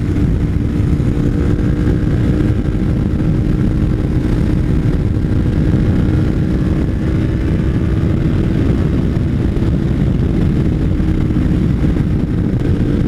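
2013 Kawasaki Ninja 300's parallel-twin engine through an MGP Growler slip-on exhaust, running at a steady cruise.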